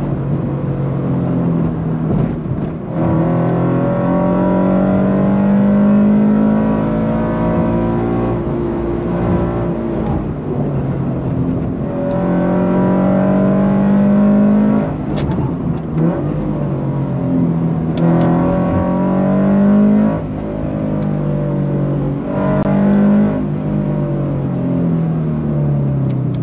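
Subaru BRZ's flat-four engine with a catless exhaust and unequal-length header, heard from inside the cabin while driven hard: it rises in pitch under throttle, then falls away, again and again. A few brief sharp clicks come in the second half.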